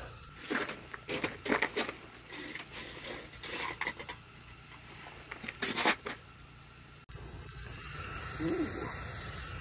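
Irregular rustling and clicking of things being handled, in bursts for about six seconds, then a steadier background after a cut about seven seconds in.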